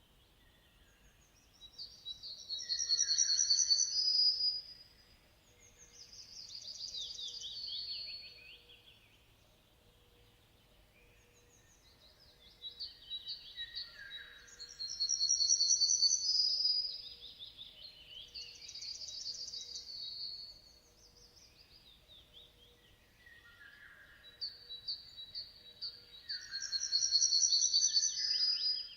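A songbird singing high, rapid trilled and warbled phrases in bursts of a few seconds, separated by short pauses. The same sequence of phrases comes round again about every eleven seconds, three times.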